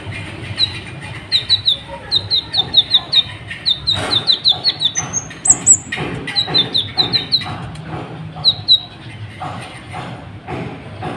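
Sunbird ("kolibri ninja") singing a fast run of sharp, high chirps in quick bursts, with a few higher, thinner notes about halfway through.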